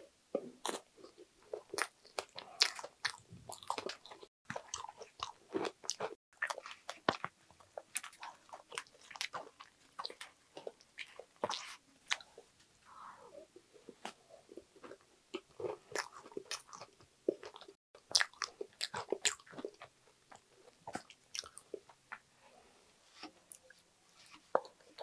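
Mouth sounds of eating a spoonable strawberry cheesecake: chewing with many small, irregular crackles and clicks, including the crunch of its crumble topping, as a wooden spoon scoops the cake from a plastic tray.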